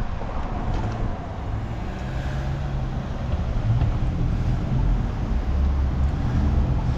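Road traffic at an intersection: car engines running in a steady low rumble as vehicles move through.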